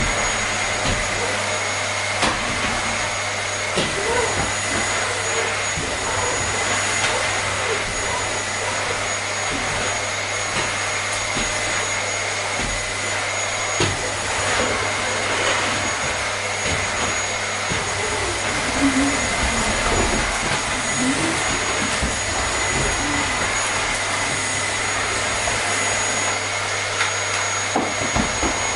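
Vacuum cleaner running steadily: an even whooshing rush of air with a constant high whine over a low motor hum.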